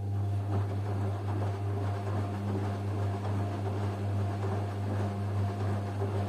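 Washing machine running with a steady electric hum and a rumbling, swishing noise over it.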